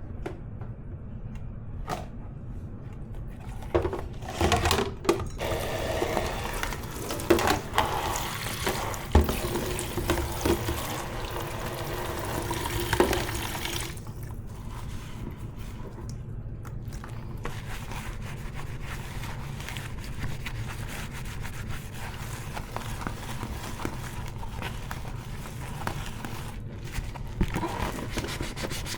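Kitchen tap running into a sink as dishes are rinsed under it, with several knocks and clinks of dishes. After about ten seconds the water stops and softer scrubbing and handling sounds go on.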